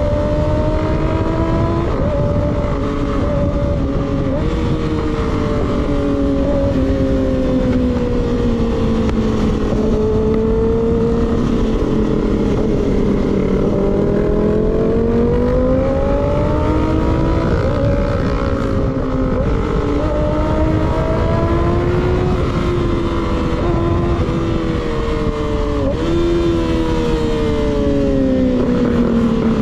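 Motorcycle engine with an unbaffled M4 slip-on exhaust cruising under steady throttle. The engine note rises and falls slowly, with brief dips about 4, 18 and 26 seconds in, over heavy wind noise on the microphone.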